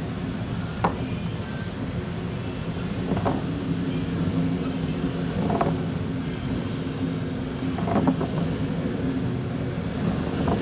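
A boat's engine running steadily with a low hum. A short splash or thump recurs about every two and a half seconds as the hull meets the waves of a rough sea.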